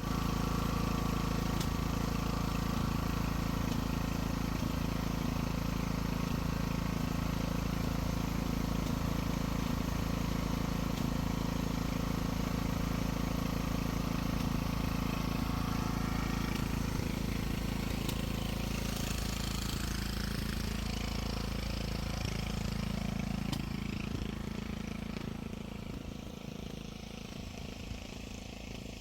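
An engine running steadily at a constant speed, starting suddenly and easing down somewhat near the end.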